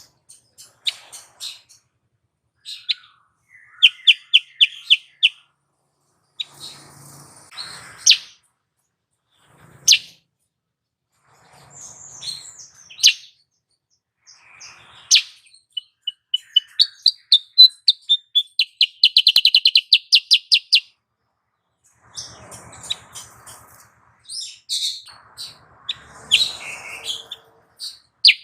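Female kutilang sutra calling: scattered sharp chirps and whistled notes, with a fast trill of evenly repeated notes about four seconds in and a longer, louder trill in the second half.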